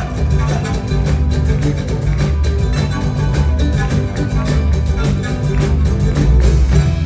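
Live band music with guitar, a repeating bass line and a steady beat, in a Peruvian style.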